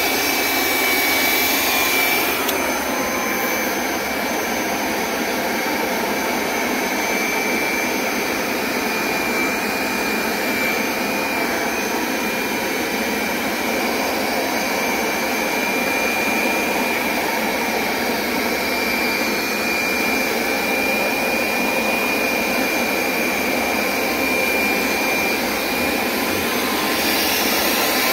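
Hoover SmartWash Pet Complete carpet cleaner running steadily as it makes cleaning passes over a rug: its suction motor drones with a steady high whine. A brighter hiss comes briefly at the start and again near the end.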